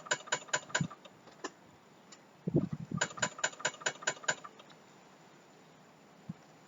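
A car's starter solenoid clicking rapidly when the key is turned, about five or six clicks a second, in two short runs, without the engine cranking or starting. A low thump comes between the two runs.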